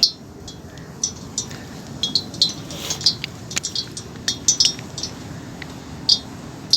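Metal utensils and dishes clinking: a rapid, irregular run of light, ringing strikes.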